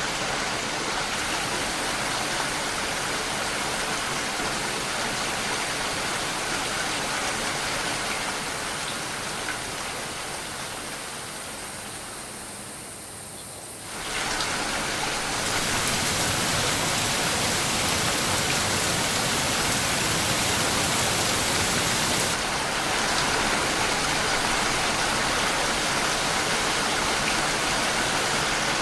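Steady rain falling, a dense even hiss of drops. About halfway through it fades down over several seconds, then cuts back in suddenly, a little louder than before.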